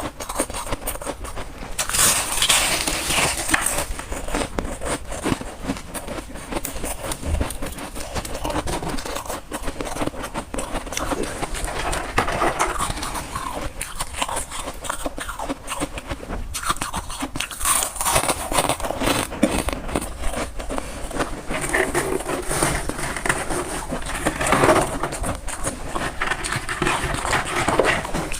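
Close-up crunching and chewing of freezer frost ice, a dense run of crackles and scrapes with louder bursts of crunching every few seconds.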